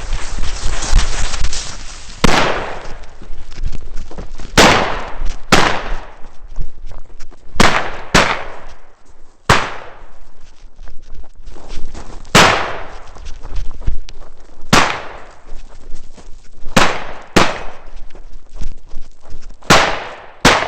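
Mossberg 930 semi-automatic 12-gauge shotgun firing about a dozen shots at targets, irregularly spaced one to three seconds apart with some quick pairs, each shot ringing briefly. A rushing noise fills the first two seconds before the first shot.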